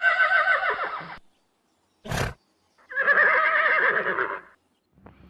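Horse neighing sound effect: two wavering whinnies, with a short noisy burst between them.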